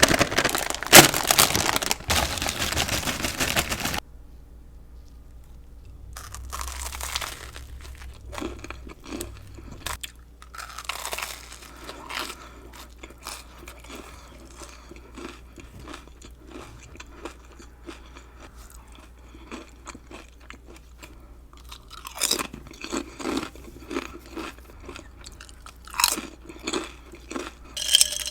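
A person chewing and crunching food close to the microphone, loudest and densest in the first few seconds, then softer irregular chewing with louder bursts of crunching near the end.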